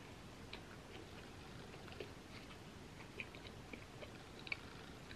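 Faint chewing with the mouth closed: scattered soft, irregular mouth clicks and smacks.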